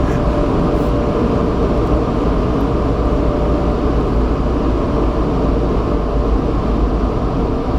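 Steady rushing air noise over a deep, even rumble inside a car on the conveyor of an automatic car wash tunnel: the wash machinery and air from the dryers running.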